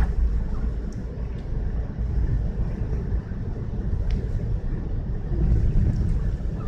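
Steady low rumble of a car driving, with the loudness swelling and dipping and a few faint scattered ticks.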